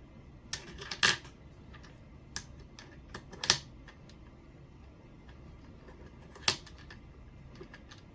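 Sharp clicks and taps of small hard parts being handled and fitted together: the RC car's aluminum steering bell crank and its bushings. The loudest clicks come about one second in, about three and a half seconds in and about six and a half seconds in, with lighter taps between.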